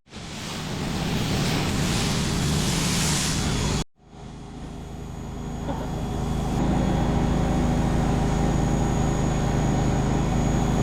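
A steady loud hissing spray of water, cut off suddenly about four seconds in. A steady motor hum with several tones follows and slowly grows louder.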